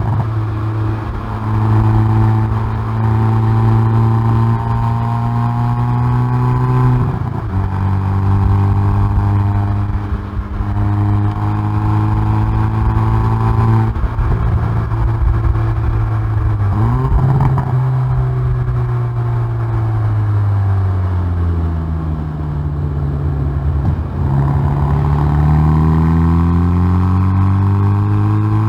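Hyundai i30N Performance's turbocharged four-cylinder engine and exhaust, heard close at the rear bumper, pulling hard on track: the engine note climbs through a gear, drops sharply at an upshift, and climbs and drops again. It then falls away under braking with a quick rising rev blip on a downshift, and climbs once more near the end.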